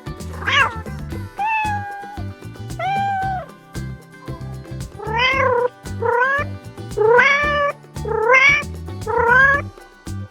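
Domestic cat meowing about eight times, short separate calls, several rising in pitch, over background music.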